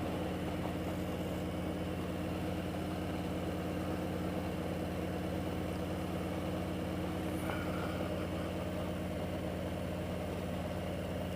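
Motorcycle engine running steadily at an even cruising speed, its note holding constant without revving up or down.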